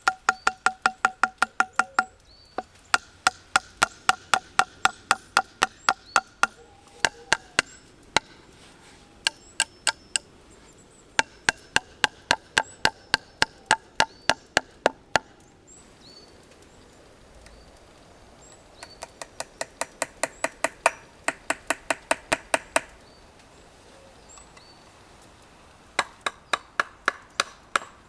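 Rapid chopping strikes of a blade on wood, about five a second, in runs of a few seconds with short pauses between them; the first strikes ring with a clear tone.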